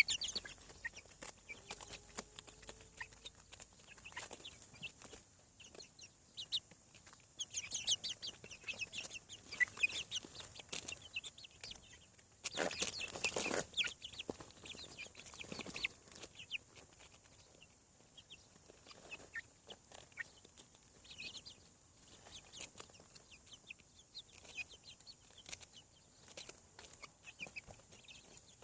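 Young chickens, about seven weeks old, peeping and clucking in scattered short, high calls. Roughly halfway through there is a louder rustling noise lasting a second or two.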